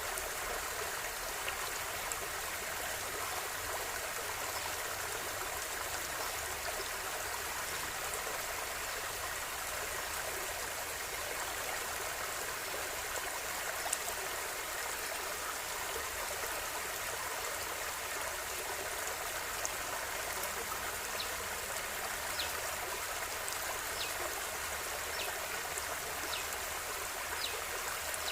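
River water flowing steadily over rocks, an even rushing with a few brief high ticks and plinks in the second half.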